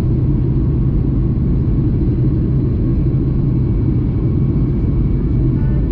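Steady low rumble inside the cabin of a Boeing 737 MAX 8 in flight: engine and airflow noise, with a steady low hum under it.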